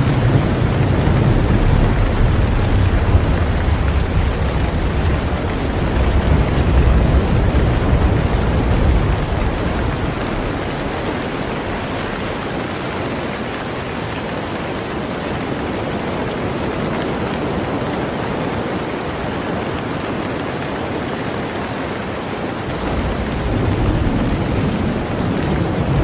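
Heavy rain falling steadily on a boat, an even hiss throughout. A deep low rumble lies under it for the first third, drops away, and comes back near the end.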